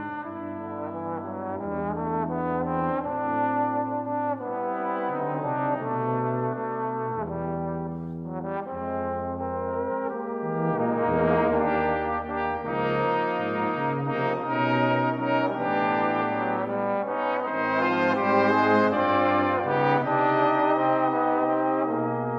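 Brass quintet of two trumpets, horn, trombone and tuba playing a slow jazz-standard ballad in sustained chords over a moving tuba line, growing louder about halfway through.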